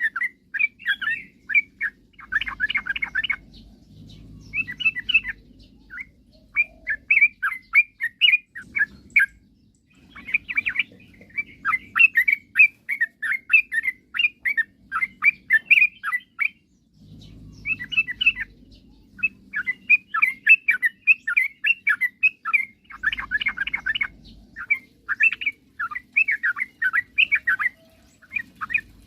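Yellow-vented bulbul (trucukan) singing in long phrases of quick chirping notes, broken by short pauses of a second or so, with a faint low hum under parts of it.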